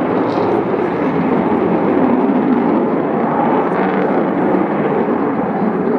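Avro Vulcan B2's four Rolls-Royce Olympus turbojet engines, loud and steady as the bomber makes a low pass.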